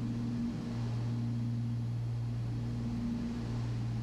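Beechcraft Baron B55's twin piston engines and propellers droning steadily in cruise, a low steady hum with hiss over it.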